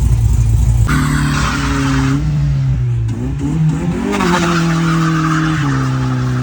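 Car engine held at high revs while the tyres screech. The engine pitch dips and climbs again about three to four seconds in, then holds steady.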